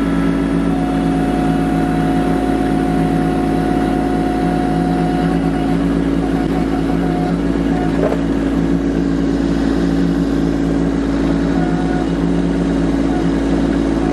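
Kubota LX2610 compact tractor's three-cylinder diesel engine running steadily. A thin, steady higher whine rises over it about a second in and lasts about five seconds.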